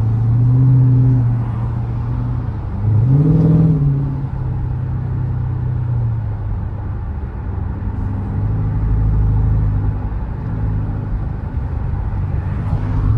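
Dodge Challenger engine running with its muffler removed, the exhaust note steady, then a brief rev about three seconds in that rises and falls back, and another rev starting at the very end.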